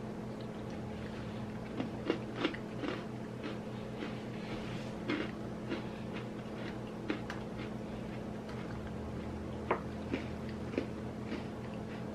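Two people biting and chewing chocolate sandwich creme cookies: about a dozen short, scattered crunches.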